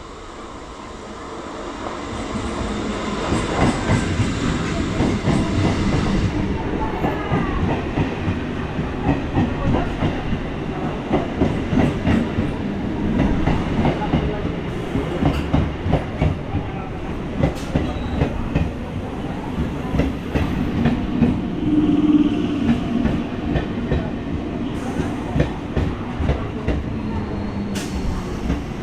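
Indian Railways EMU electric train running past on the track, growing louder over the first few seconds, then a continuous rumble with the wheels clattering over the rail joints in a repeating rhythm.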